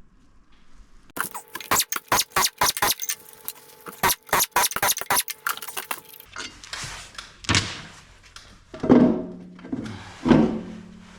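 Metal parts and tools clattering: a run of quick metallic clicks for about five seconds, then a low hum with three louder scraping swells near the end.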